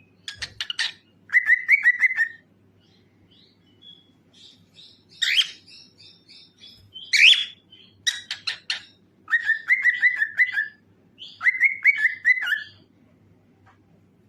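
Cockatiel singing in short phrases: quick runs of clicking chirps, warbled trills, and two louder rising whistled calls about five and seven seconds in.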